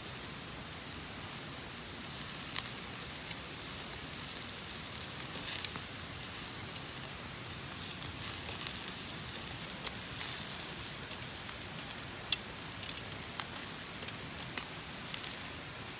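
Wood campfire burning: a steady hiss with scattered sharp crackles and pops, more frequent in the second half.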